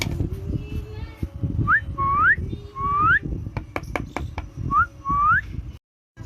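Whistling: short notes that glide sharply upward, given singly and in quick pairs, several times over. Sharp clicks sound around the middle and again near the end, over a low background rumble.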